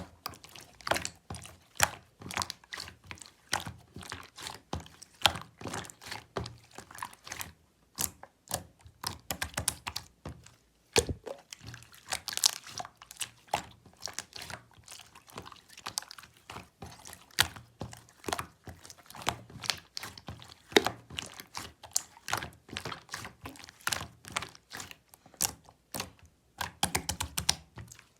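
Clear slime being squeezed and pressed by hand, giving a quick, irregular run of sticky clicks and pops as trapped air bursts.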